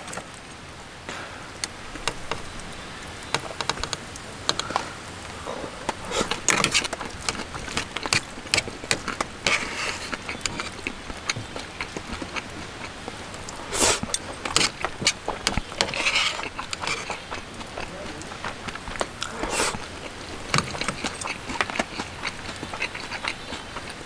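Steady rain noise with many irregular clinks, taps and knocks of things being handled, heaviest in several short clusters.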